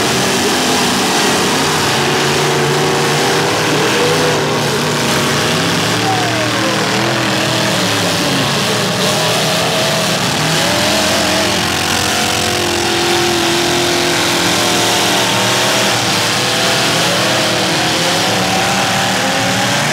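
Several demolition derby cars' engines running and revving at once, their pitches rising and falling over one another, with a dense, loud wash of engine noise throughout.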